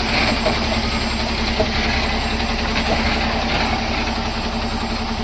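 Heavy vehicle engine running steadily at idle with an even low hum.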